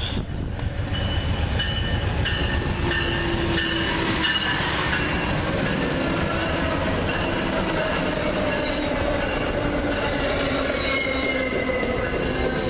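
A train's cars rolling past at close range, a steady loud rumble with high thin wheel squeals that come and go over it.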